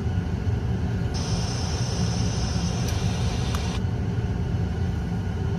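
Steady low road rumble inside a car's cabin. From about a second in, a steady high hiss joins it for a few seconds and then cuts off suddenly, with a couple of faint clicks.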